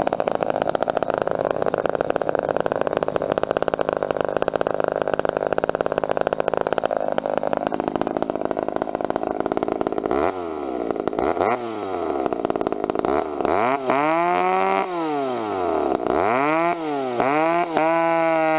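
A chainsaw runs steadily under load for about ten seconds, as in a cut. It is then blipped up and down several times and held at high revs near the end.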